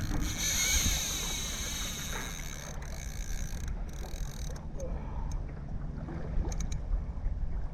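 Water and wind rumble around a kayak at sea, with the faint steady hum of its electric trolling motor running at a set trolling speed.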